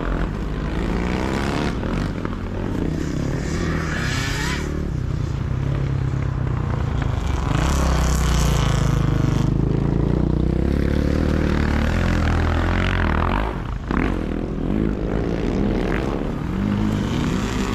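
Motocross sidecar motorcycles racing past, their engines revving up and down through the gears, several overlapping. The engine noise swells to its loudest about halfway through and dips briefly a little later.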